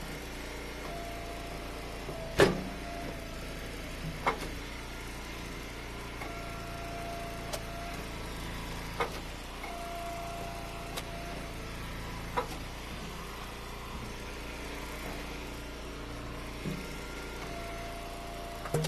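Eastonmade wood splitter's engine running steadily, with a held tone coming in stretches of a second or two as it works through ash rounds. About eight sharp knocks of split wood break through, the loudest about two and a half seconds in.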